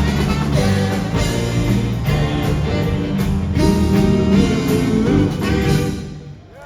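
Live band music: sustained chords moving from one to the next, the song's closing passage, dying away about six seconds in.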